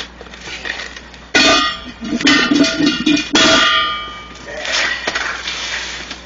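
Metal clanging from the steel truck wheel rim and tire tools being handled: three loud strikes about a second apart, each ringing on, then a lighter scrape.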